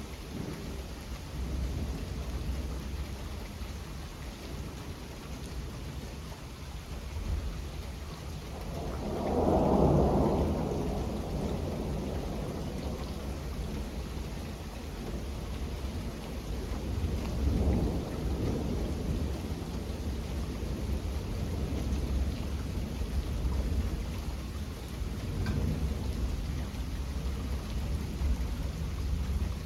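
Steady rain with rolling thunder. The loudest rumble swells about ten seconds in, and softer rolls follow near the middle and toward the end.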